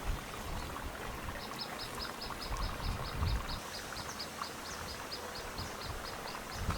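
A rapid, even run of short high chirps, about five a second, begins a second or so in and goes on almost to the end, over a low rumbling background.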